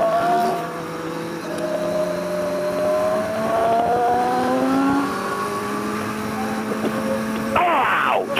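Motorcycle engine under way, its note climbing slowly as the bike accelerates, with wind rush. A voice cuts in loudly near the end.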